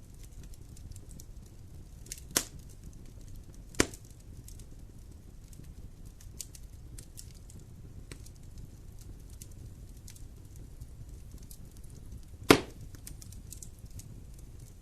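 Fire burning in a fireplace: a low steady rumble of flames with scattered small crackles and three sharp pops, the loudest near the end.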